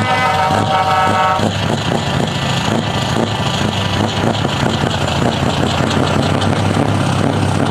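A truck air horn blows and cuts off about a second and a half in, over a truck engine running loud through an open, straight-piped exhaust with rapid, even firing pulses.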